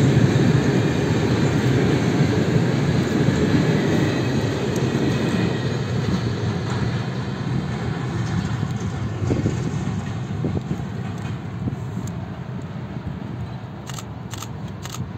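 Long freight train of open-top wagons rolling along the track, its steel wheels running on the rails in a steady rumble that fades gradually as the train moves away.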